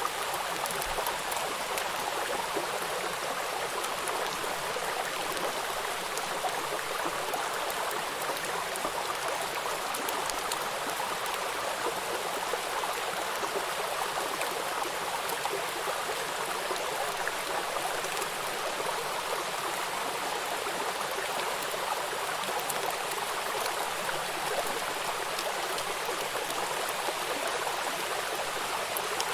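Rain falling on a flowing river: a steady rush of moving water with a fine patter of raindrops on the surface.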